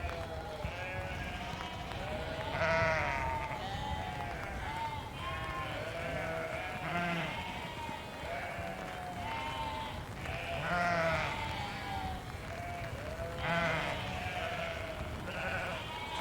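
A flock of sheep bleating, many calls overlapping without a break, with a few louder bleats standing out about three, eleven and thirteen and a half seconds in.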